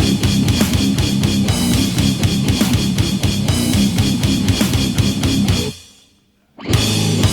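Death metal band playing: fast drum kit with bass drum under distorted guitar. The music stops abruptly about six seconds in and comes back loud after a brief gap.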